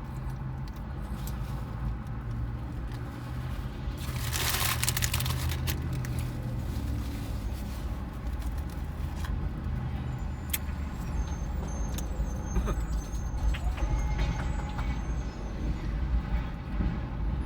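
Someone eating a Whopper: chewing and crinkling its paper wrapper over a steady low rumble, with a louder rustle about four seconds in and scattered sharp clicks later.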